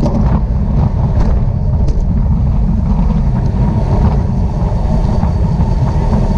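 Heavy wind buffeting on the microphone of a camera moving at racing-bike speed: a steady, loud low rumble with a few faint ticks.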